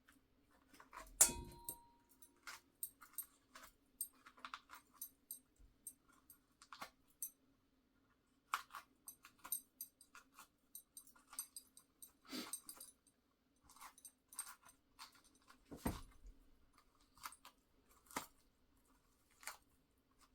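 Knife working the flesh of an orange loose from the inside of its peel: faint, irregular wet squelches and scrapes, with a sharper knock about a second in.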